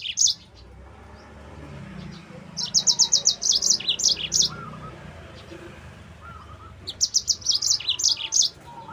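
Yellow-fronted canary (Mozambique canary) singing: two bursts of song, each a quick run of high, evenly spaced notes followed by a few lower ones, starting about two and a half seconds in and again about seven seconds in.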